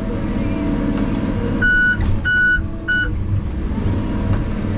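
Heavy logging equipment engine running steadily, with a reversing alarm beeping three times about two seconds in, the last beep shorter.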